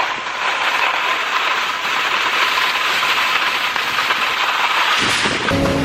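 Skis sliding over packed snow, a steady hiss. Near the end it gives way to background music.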